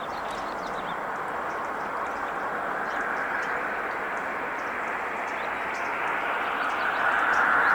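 A road vehicle approaching, its tyre and engine noise growing steadily louder and rising slightly in pitch, loudest near the end.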